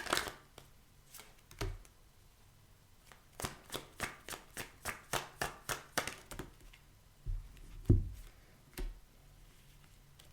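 A tarot deck being shuffled by hand: a run of quick, evenly spaced card slaps, then a couple of duller taps near the end as cards are set down.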